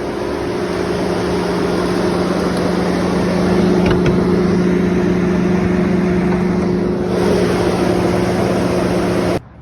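2016 GMC Yukon XL's electric radiator cooling fan stuck running at full speed: a loud, steady rush of air over a low motor hum, which cuts off abruptly near the end. The owner takes the fan that won't shut off for a sign of a faulty coolant temperature sensor.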